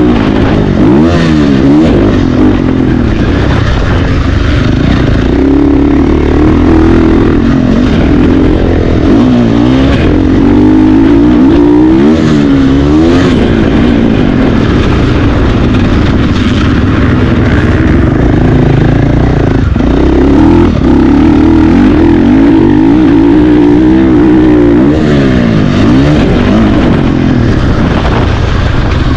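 Motocross bike engines racing, revving up and down over and over as the throttle is opened and shut and gears change.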